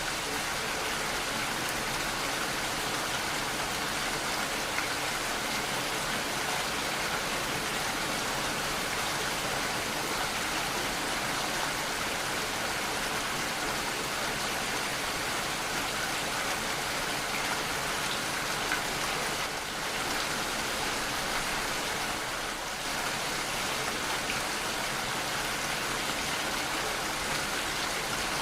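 Steady rainfall: an even hiss of raindrops falling without a break.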